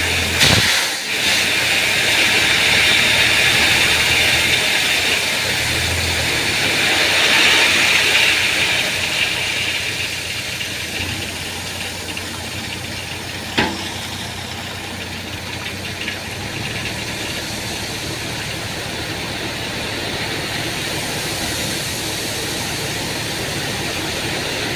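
A heavy vehicle's engine running steadily under a loud, even hiss. A single sharp click sounds about half a second in and another about halfway through.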